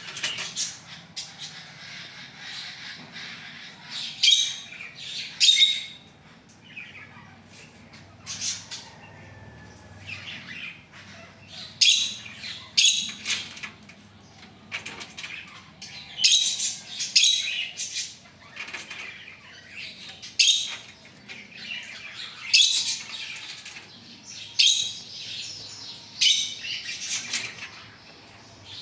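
Pet parakeet calling: short bursts of loud, high-pitched calls come every one to two seconds, with softer chattering between them.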